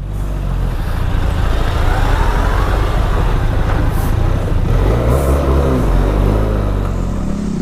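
Motorcycle engine running on the road, a steady low rumble throughout, with a faint rise and fall in pitch a couple of seconds in.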